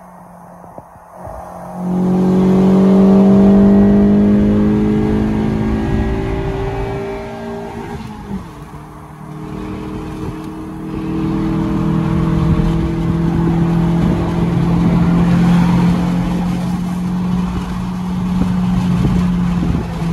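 Fiat Tipo's 16-valve four-cylinder engine under hard acceleration. It pulls up through the revs, drops in pitch at a gear change about 8 seconds in, then pulls up again through the next gear before easing off at the end.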